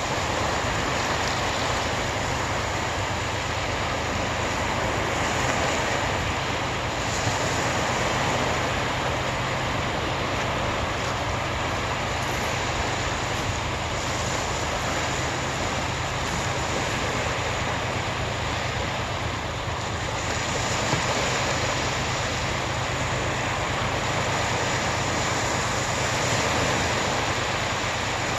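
Steady rush of sea water, with a low, even hum underneath.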